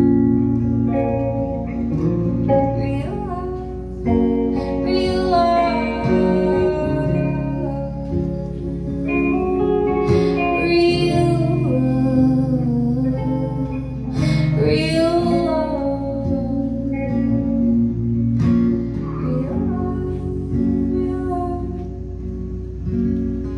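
A live band playing an instrumental passage of guitar-led music with sustained chords, with a voice singing over it at times.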